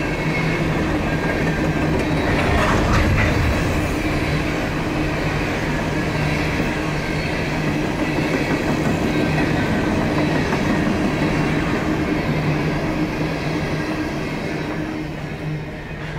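Empty coal hopper cars of a Norfolk Southern freight train rolling past on steel rails: a steady rumble and clatter with a steady hum underneath and a few clanks about three seconds in. The sound fades as the last car passes near the end.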